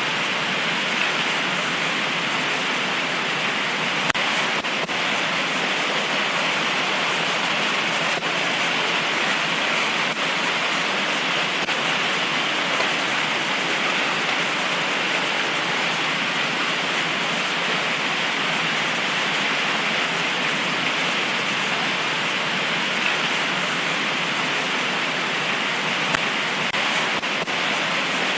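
Heavy tropical rain pouring steadily in a dense, even hiss, with a few faint ticks of individual drops.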